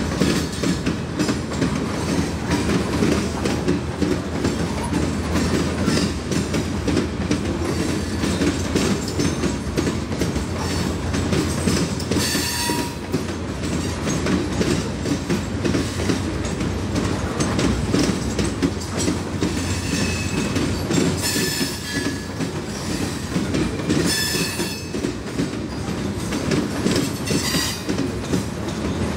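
Freight train of open-top hopper cars rolling steadily past, its steel wheels rumbling and clacking over the rail joints. High-pitched wheel squeals rise above it about 12 s in, around 20–22 s, and about 24 s in.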